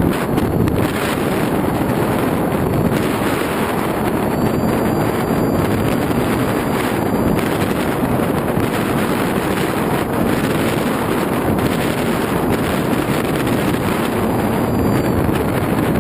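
Steady, loud rush of air over the microphone of a GoPro riding on an FX-61 flying-wing model plane in flight.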